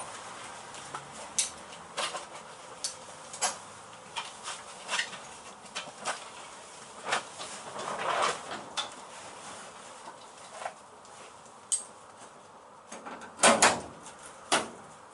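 Clamps being put on the toe board panel of a Mini body shell: scattered sharp clicks and light knocks, with a louder clank about thirteen and a half seconds in.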